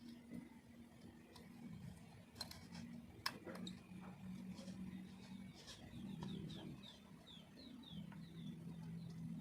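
Faint bird calls: low cooing in several phrases, and a quick run of about ten short descending chirps in the middle. A couple of sharp clicks come early.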